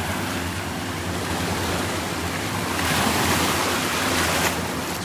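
Sea waves washing onto a beach, one wave swelling about three seconds in and easing off a second and a half later.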